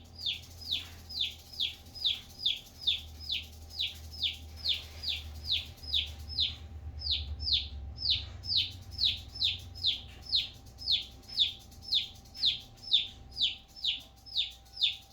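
A domestic feeder chick peeping without pause, short high chirps that fall in pitch, about two to three a second. The calls come from the second chick, not the bitten, envenomated one.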